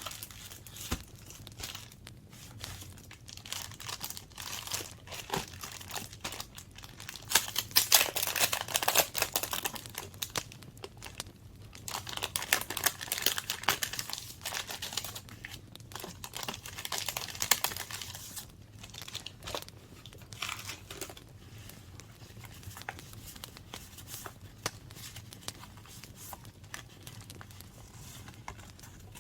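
Paper being handled, crumpled and torn by hand: dense crinkling and tearing in bursts, loudest in two stretches in the first half, then softer rustling.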